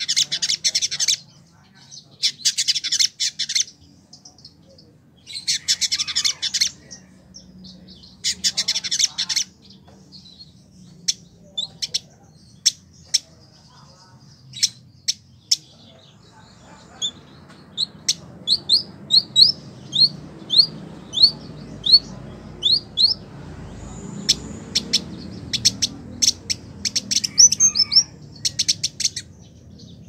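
Village indigobird singing vigorously: four harsh, buzzy chattering phrases of about a second each, then scattered sharp single notes. About two-thirds of the way through comes a run of a dozen quick rising whistled notes, about two a second, followed by a rapid flurry of notes near the end.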